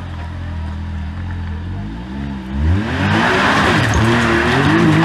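A side-by-side UTV engine running low and steady, then from about two and a half seconds in revving hard again and again, its pitch swinging up and down as it climbs, with a loud rushing hiss coming in alongside.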